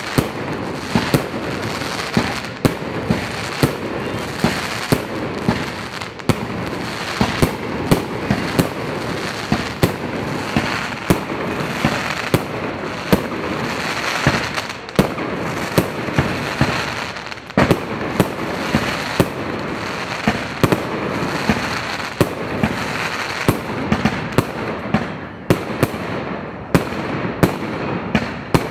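Fireworks display: a run of aerial shells banging roughly once or twice a second over a dense, constant noise. The bangs come faster near the end.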